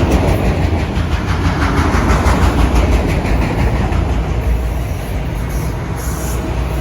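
Freight train cars rolling past close by: a steady rumble of steel wheels on the rails with rhythmic clickety-clack. It eases off slightly near the end.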